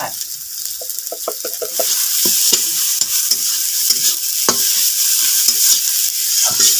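Onions and spices frying in hot oil in a kadai, with a steady sizzle that grows louder about two seconds in. A metal ladle scrapes and clicks against the pan as the masala is stirred.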